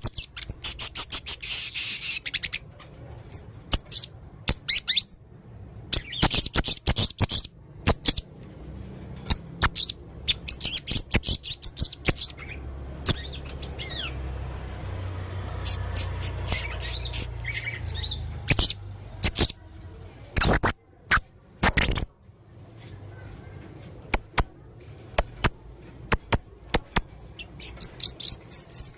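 Male blue-crowned hanging parrot (serindit) singing busily: bursts of sharp, high chirps and clicking notes with short gaps between them, full of learned fill-in phrases.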